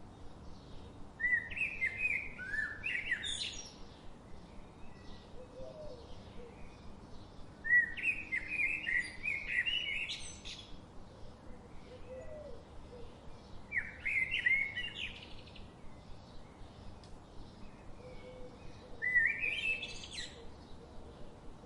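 A songbird singing four phrases, each a couple of seconds of quick, varied notes that climb to high notes at the end, spaced about six seconds apart, over faint, evenly repeating chirps.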